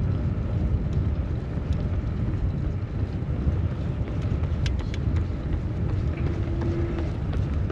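Steady low rumble of wind buffeting the microphone of a camera on a moving bicycle, over general city street traffic noise.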